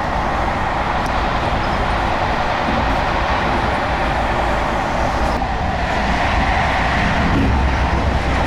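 Passenger train running along the track: a steady rumble and rushing noise.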